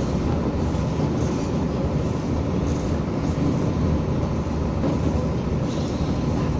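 Materfer diesel railcar running steadily at speed, a continuous rumble of wheels on the track.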